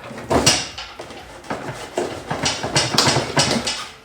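Workshop tool noise during transmission removal: a run of short, irregular bursts of mechanical clatter, several in quick succession from about half a second in.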